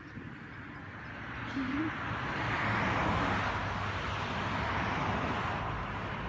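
A car driving past: tyre and engine noise swells to a peak about three seconds in, then fades away.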